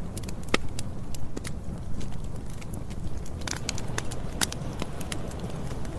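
Campfire burning: a steady low rumble of the flames with frequent sharp, irregular crackles and pops from the burning wood.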